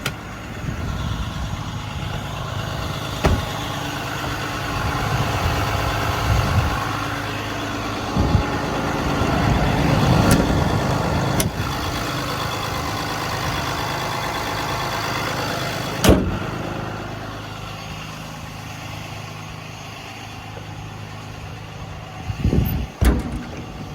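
6.7-litre Cummins diesel of a Ram 5500 service truck idling steadily. A few sharp clicks or knocks sound over it, the loudest about two-thirds of the way through.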